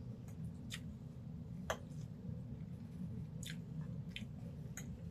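Close-miked chewing and wet mouth smacks while eating grilled whole fish, with several sharp clicks, the loudest about two seconds in, over a steady low hum.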